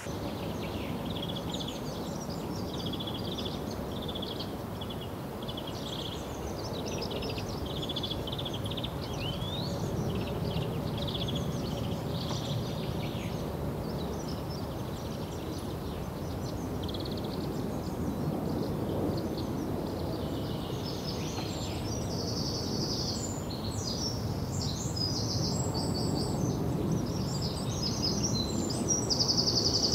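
Small birds chirping and twittering over a steady low background noise. About twenty seconds in, higher, quicker chirps join.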